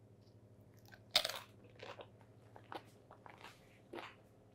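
Someone biting into and chewing crunchy food close to the microphone: one sharp crunch about a second in, then irregular smaller crunches and clicks of chewing.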